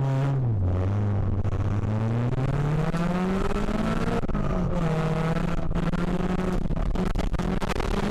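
Citroën Xsara VTS's 2.0-litre 16-valve four-cylinder engine heard from inside the cabin, driven hard on a gravel stage: the revs drop about half a second in, climb steadily for about three seconds, drop again around four and a half seconds in, then hold high, the rises and drops of gear changes. Gravel clicks and knocks against the car, more often near the end.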